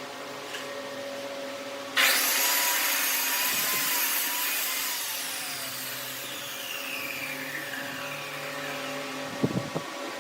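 Woodworking power tool: a steady motor hum, then about two seconds in a loud hissing, whining cut starts suddenly and fades over several seconds as its pitch falls. A few sharp knocks come near the end.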